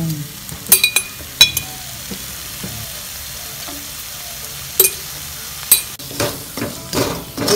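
Sliced onions, green chillies and chilli flakes sizzling steadily in a stainless steel wok, with a few sharp clinks of the spoon against the pan and a run of stirring scrapes near the end.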